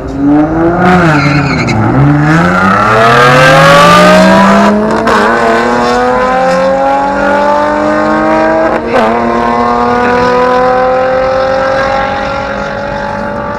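A truck's engine accelerating hard on a drag run. Its revs dip briefly, then climb steadily in pitch, with two short breaks as it shifts gears, and the sound eases off near the end.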